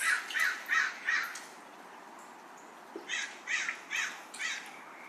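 A bird calling in two runs of quick repeated calls, about four in each, the second run starting about three seconds in.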